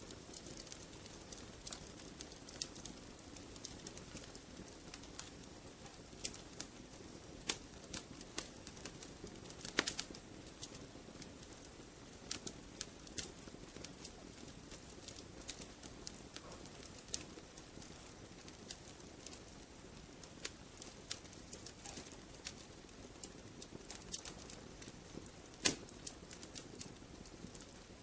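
Wood fire crackling in a fireplace: irregular sharp pops and snaps over a soft, steady hiss, with a louder pop about ten seconds in and the loudest a few seconds before the end.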